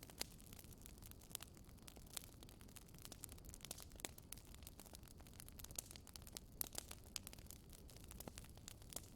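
Wood fire crackling faintly, with irregular small pops and snaps over a low, quiet hiss.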